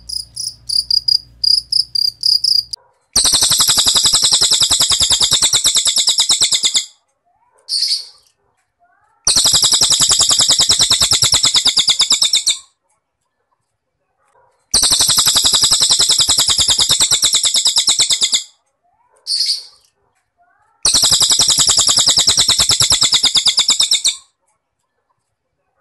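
Field cricket chirping rapidly for the first few seconds, then a cililin bird singing four long, rapid, high-pitched trills of about three and a half seconds each, with a short single note between some of them.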